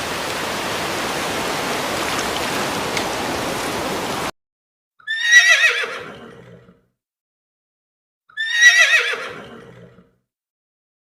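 A steady rushing noise cuts off suddenly about four seconds in. After a pause a horse whinnies twice, a few seconds apart; each whinny lasts about a second and a half, starts high, wavers and falls away.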